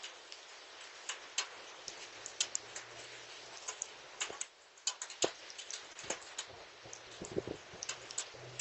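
Rain mixed with hail: a steady hiss of rainfall with irregular sharp ticks of hailstones striking, a few each second.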